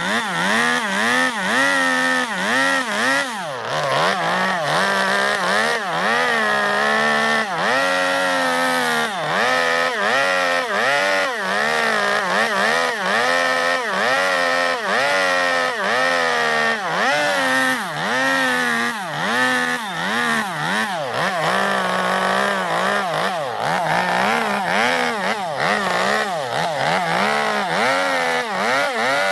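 Two-stroke chainsaw carving into zelkova wood, its engine pitch rising and falling about once a second as the bar is worked in and out of the cut to hollow the bowl.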